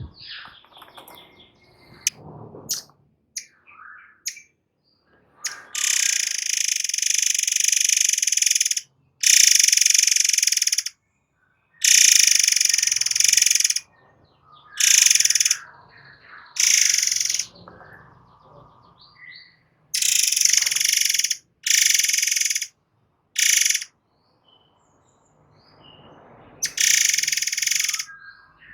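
Murai air songbird singing: short chirps at first, then from about six seconds in a run of loud, shrill, high-pitched bursts of rapid-fire song, each one to three seconds long with short gaps between. This is the 'nembak' (shooting) style of delivery.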